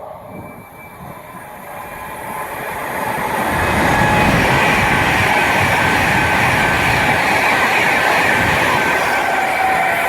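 A train approaching and running past on the main line, growing louder over the first four seconds and then staying loud, with a thin high-pitched ring from the wheels on the rails.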